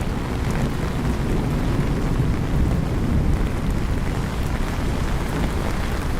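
Steady rain in a city with a low rumble of thunder and traffic underneath.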